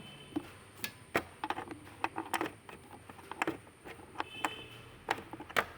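Metal spanner clicking and scraping against a 10 mm nut while it is worked loose: a dozen or so irregular sharp clicks, a few with a short metallic ring.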